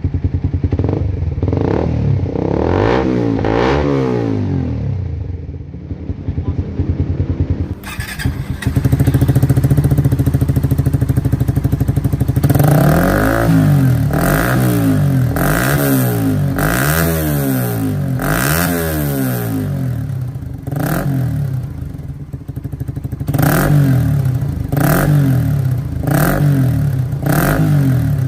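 Suzuki GSX-R150's single-cylinder engine through an aftermarket exhaust, idling and being revved in short throttle blips that rise and fall. It blips a few times in the first seconds, settles to idle, then gives a run of quick blips about once a second from around the middle, with more near the end.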